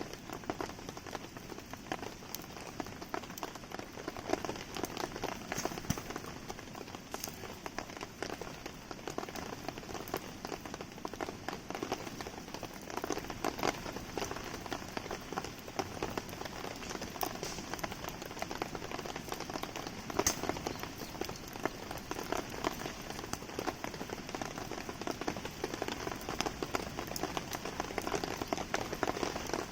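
Steady rain pattering, mixed with many small sharp ticks and pops from a wood campfire burning in the rain.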